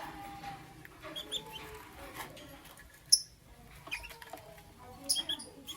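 Pet lovebirds chirping: scattered short, sharp, high-pitched chirps over faint softer twittering, the loudest a single chirp about three seconds in and a quick run of several chirps near the end.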